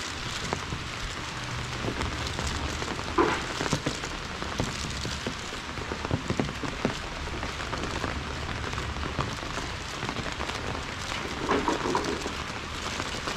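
Steady rain falling, with many single drops striking close by. Two brief louder sounds stand out, about three seconds in and near the end.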